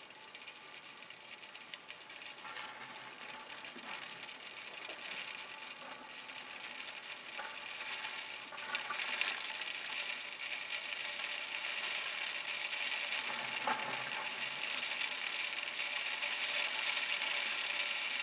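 Rain pattering, a dense crackling hiss of many small drops that grows steadily louder and steps up about halfway through. No thunder rumble is heard.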